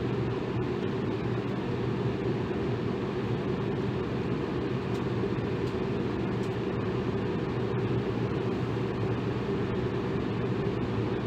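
Electric fan running steadily: an even whooshing air noise, strongest low down, with a faint steady motor hum.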